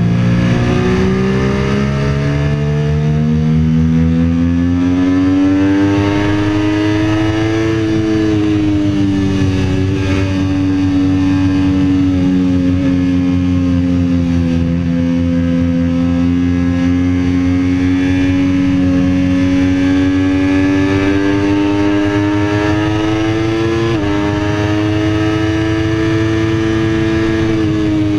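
Sport motorcycle engine pulling hard at speed: the engine note climbs over the first several seconds, then holds high and fairly steady as the bike keeps accelerating. There is a brief step in pitch near the end.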